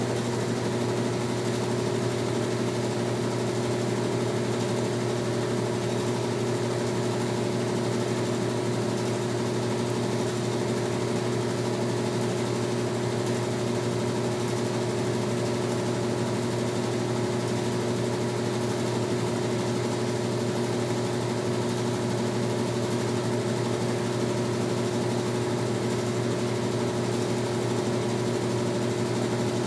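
Brastemp Tira Manchas Pro 12 kg washing machine running mid-cycle: a steady, even motor hum with a constant whine above it and no pauses.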